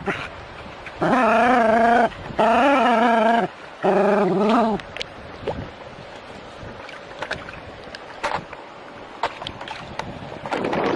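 A dog giving three long, wavering whining cries in quick succession, each about a second long, then a quieter stretch with a few light clicks.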